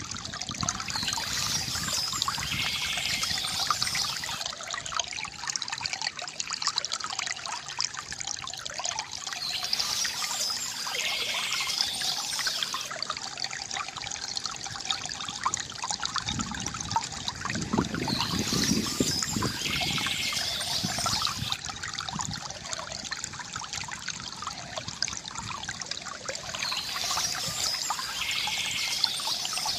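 Stream water trickling and splashing steadily, with a brighter, hissier swell that comes back about every nine seconds.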